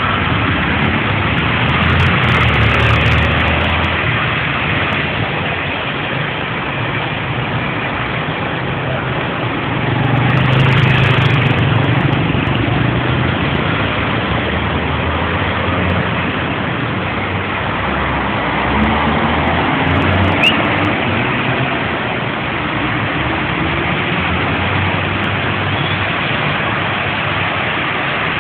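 Steady rain hiss with a low engine rumble that swells twice, about two seconds in and again about ten seconds in.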